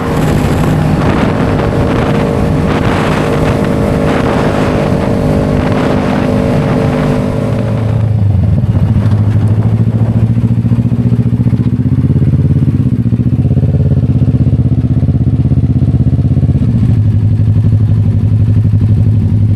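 Motorcycle engine running at a steady cruise under wind and road noise, then about eight seconds in it settles to a lower, steady low-rev note, with a brief dip and rise in pitch midway.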